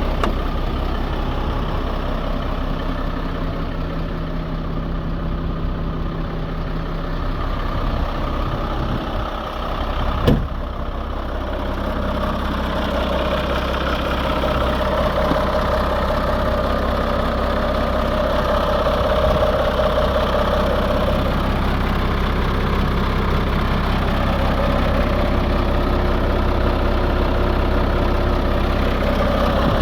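Iveco Eurocargo 100E18 truck's diesel engine running steadily. A single sharp knock comes about ten seconds in, and soon after it the drone settles onto a different steady pitch.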